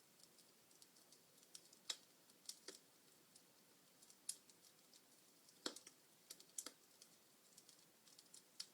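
Wood fire crackling in a fireplace: irregular sharp pops and snaps, two louder pops about two seconds in and near six seconds, over a faint hiss.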